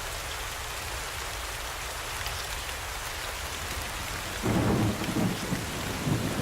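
Steady hiss of rain. About two-thirds of the way through, a low rumble starts suddenly and keeps going.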